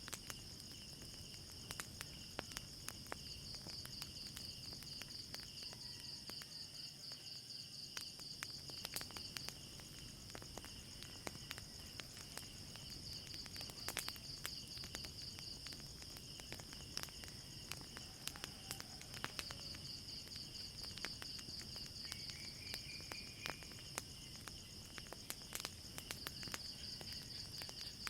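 Crickets chirping steadily in a high, pulsing trill, with irregular crackles and pops from a burning fire scattered throughout.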